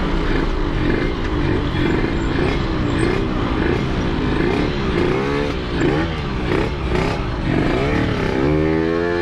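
Yamaha RX-King's two-stroke single-cylinder engine running under way, its pitch rising and falling again and again as the throttle is opened and closed, with a longer rising rev near the end.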